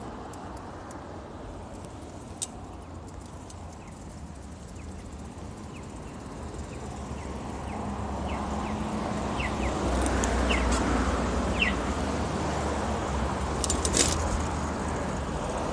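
Street traffic noise that swells about halfway through as a vehicle comes close and stays louder, with a low hum. A few short high chirps, likely birds, and scattered light clicks.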